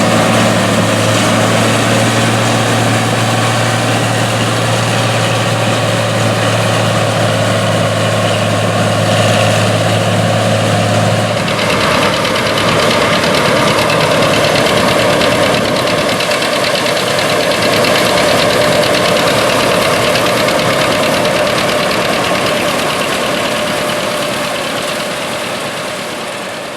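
Classic combine harvester running steadily, engine and machinery working. A low steady hum drops out about eleven seconds in, and the sound fades out near the end.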